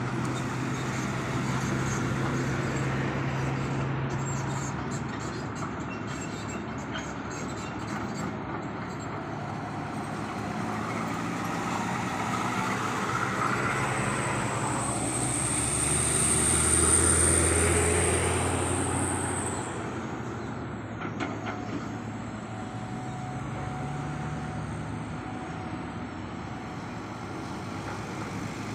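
Heavy construction machinery running with a steady engine hum. About halfway through it grows louder and deeper, and a high whine rises over it, then cuts off suddenly about two-thirds of the way in.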